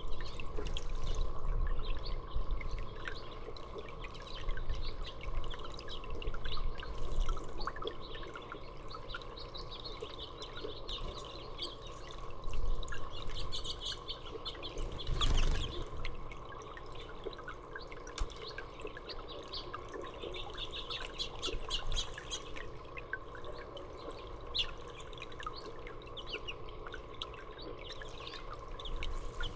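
Small birds chirping and twittering in many short high calls, over water dripping and trickling. A brief louder noise comes about halfway through.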